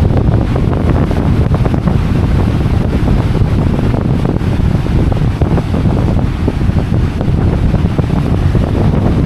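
Strong wind buffeting the microphone in heavy, gusty rumbles, with ocean surf washing underneath.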